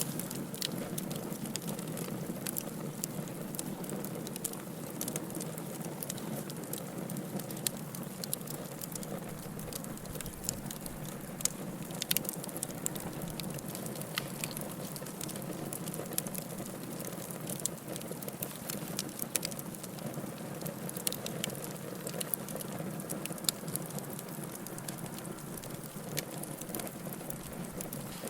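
Wood fire burning in a fireplace, crackling: many irregular sharp pops and snaps over a steady low rush.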